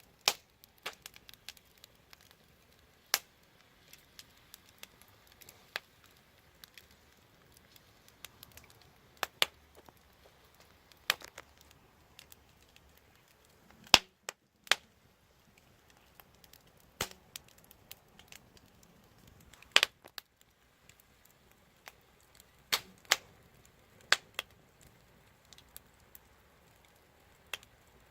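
Wood fire crackling: irregular sharp pops and snaps over a faint hiss, the loudest pops about halfway through and again a little later.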